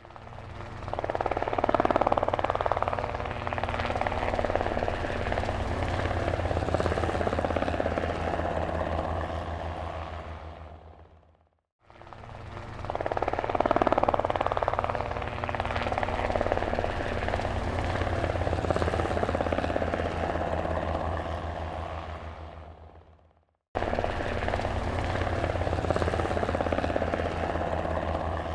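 Helicopter flying: a steady, rapid rotor beat with engine noise over it. It fades in and out twice, about twelve seconds each time, then comes back in abruptly near the end.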